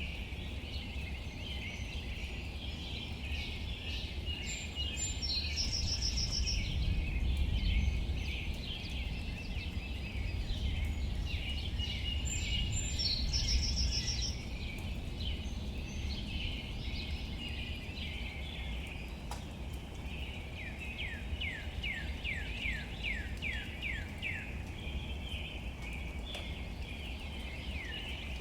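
Birds singing in a dense chorus of chirps over a steady low rumble and faint hiss of outdoor ambience. In the second half one bird repeats quick falling notes, about two a second.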